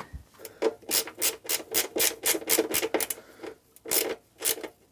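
Short scraping rubs repeated about three to four times a second, slowing to a few spaced strokes near the end, as parts are worked by hand around the motorcycle's battery.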